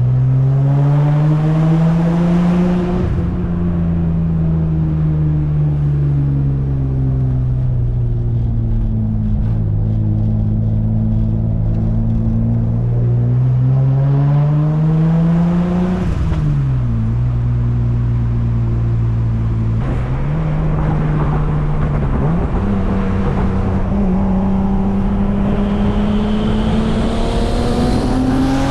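Turbocharged BMW M50 inline-six running under way, its engine note climbing for a few seconds, easing off slowly, climbing again, dropping sharply about halfway through, then rising steadily again near the end.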